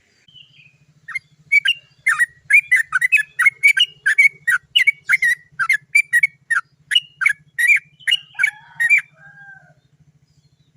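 Yellow-vented bulbul (trucukan) giving a long rolling run of sharp 'cok cok cok' notes, about three a second, closing with a couple of lower, drawn-out notes about nine seconds in. A faint low hum runs underneath.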